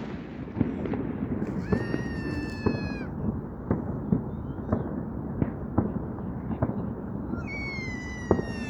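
Fireworks going off, with sharp bangs and pops every half second to a second. Two whistling fireworks are heard: a steady high whistle about two seconds in that lasts just over a second, and a slowly falling whistle near the end.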